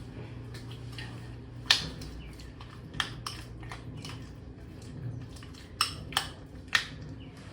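Cutlery clinking and tapping against a bowl, about half a dozen sharp separate clicks over a low steady hum.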